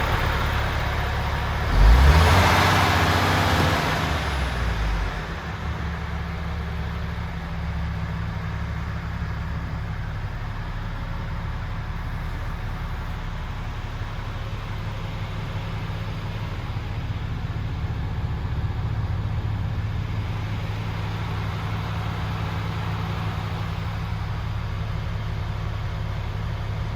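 MAN TGX 26.500's 500 bhp Euro 6 common-rail straight-six diesel idling, revved once about two seconds in. The revs rise sharply and fall back to a steady idle.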